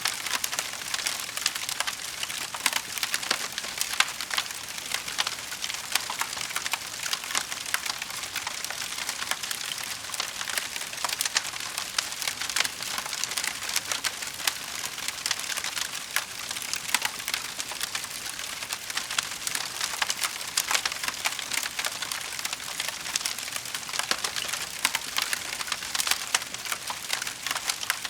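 Wood fire burning, with dense, continuous small crackles and pops over a steady hiss.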